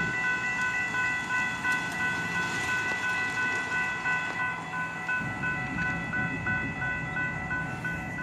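Railroad grade-crossing warning bell ringing: a clanging electronic bell tone repeating quickly and evenly, warning of an approaching train.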